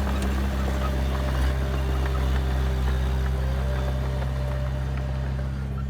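Heavy diesel engine of earth-moving machinery running steadily with a constant low drone.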